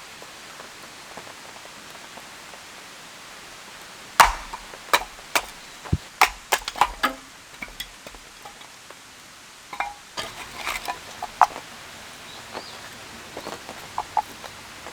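Steady rain hiss, with two spells of sharp knocks and clicks, one about four seconds in and one about ten seconds in.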